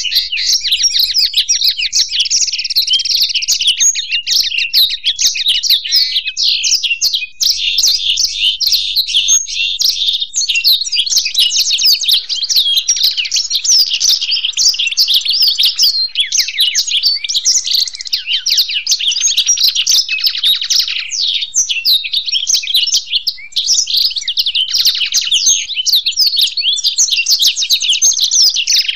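Blackthroat (black-throated canary) and European goldfinch singing together without pause: a dense, continuous stream of fast twittering trills and chirps.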